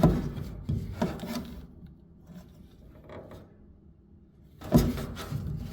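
Samsung dryer drum belt being worked off its spring-loaded idler pulley by hand: scraping and rubbing of the belt, pulley and sheet-metal cabinet, with knocks near the start and a loud knock about five seconds in.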